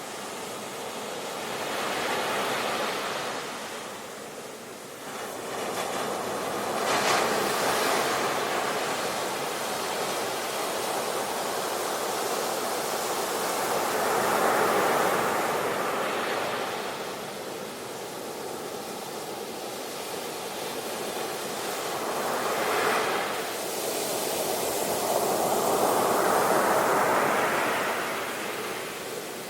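Ocean waves breaking and washing in, a steady hiss of surf that swells and falls back about five times, every five to eight seconds.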